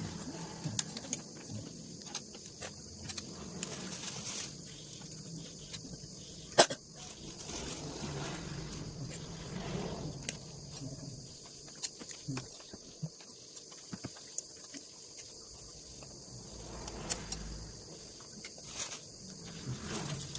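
Eating sounds from a bowl of noodles: scattered small clicks of utensils and chewing, with one sharp knock about six and a half seconds in, over a steady high hiss.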